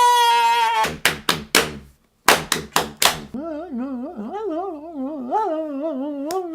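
A man making wordless vocal noises. A held note cuts off, then comes a quick run of sharp pops and clicks, a brief pause, another run of pops, and then a long wavering, warbling tone whose pitch wobbles up and down.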